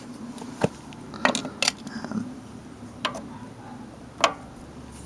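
Sharp metallic clicks, about five at irregular spacing, as a pump oil can is worked and touched against the oiling points of a Hercules hit-and-miss stationary engine.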